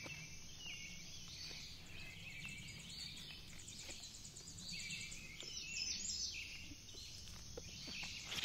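Woodland birdsong: repeated short chirping phrases over a low steady rumble, with a few faint rustles.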